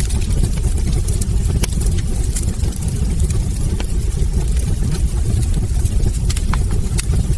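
Wood fire burning in a fireplace, crackling with frequent short sharp pops over a steady low rush of the flames.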